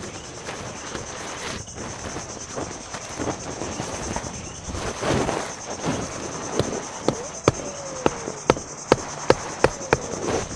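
Steady high-pitched chirring of insects such as crickets. In the second half, about ten sharp knocks fall at roughly two to three a second.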